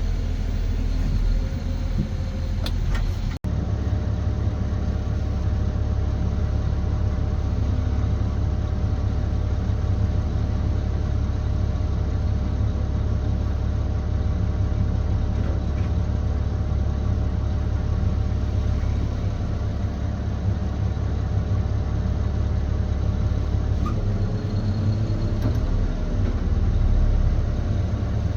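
Caterpillar 725C articulated haul truck's diesel engine running steadily under way, a deep constant drone. The sound cuts out sharply for a moment about three seconds in, then the same steady engine running continues.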